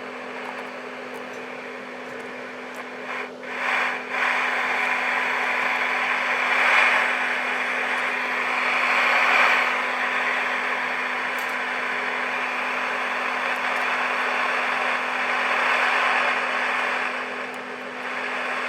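Seven-transistor AM radio's speaker giving out a steady hiss of static over a low steady tone. It cuts out briefly twice a few seconds in, then comes back louder. The fault is suspected to be a bad connection or a flaky transistor.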